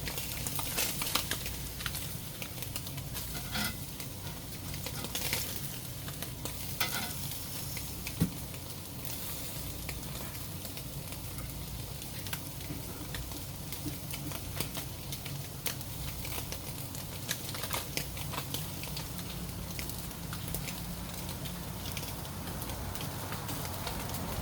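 Eel sizzling as it cooks, a steady hiss with scattered crackles and pops that come thicker in the first few seconds.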